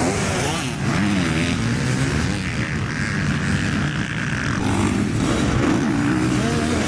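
Motocross bike engines revving up and down, their pitch rising and falling repeatedly over a steady loud engine noise.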